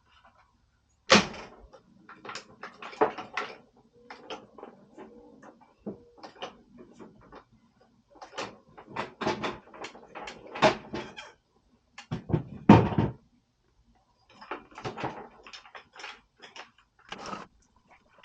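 Irregular knocks, clicks and clatter of things being handled, with a couple of louder thuds about twelve to thirteen seconds in.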